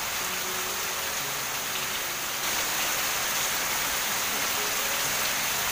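Heavy rain pouring steadily, growing slightly heavier about halfway through.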